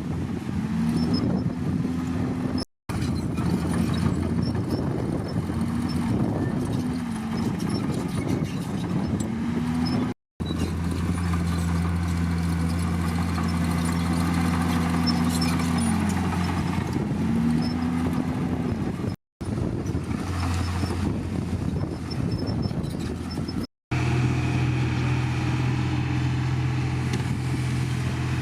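Heavy diesel earthmoving machinery, a bulldozer or dump truck engine, running and repeatedly revving up and settling back as it works. The sound cuts out abruptly four times for a split second.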